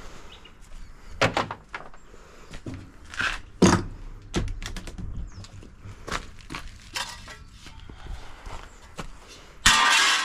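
Metal parts of a dishwasher being handled during teardown: a string of knocks, clunks and clicks, the loudest about a third of the way in, then a loud scraping noise starting near the end.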